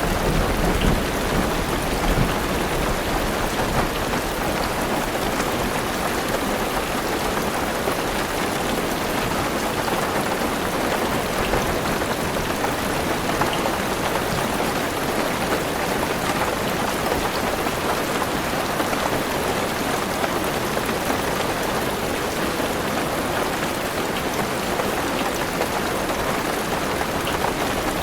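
Heavy rain pattering steadily on a car roof and windows, heard from inside the car. A low rumble of thunder sounds in the first couple of seconds.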